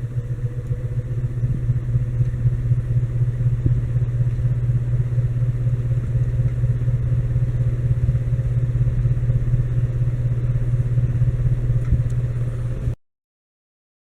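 42-inch Heritage Furneaux ceiling fan running at speed: a steady motor hum with a rapid flutter from the blades, building in loudness over the first two seconds as it finishes speeding up, then holding steady. The sound cuts off abruptly near the end.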